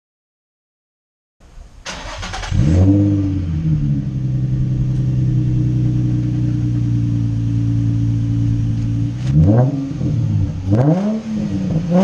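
2003 Nissan 350Z's V6, fitted with an aftermarket air intake and cat-back exhaust, starting up after a second or so of silence and settling into a steady high idle. Near the end it is revved in two quick blips.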